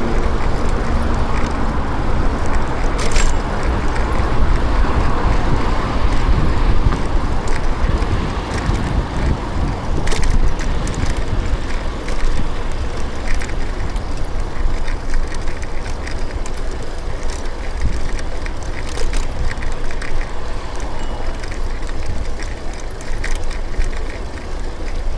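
Ride noise from a bicycle on a city street: a steady rumble of tyres and air, with traffic in the background and a few sharp clicks or rattles.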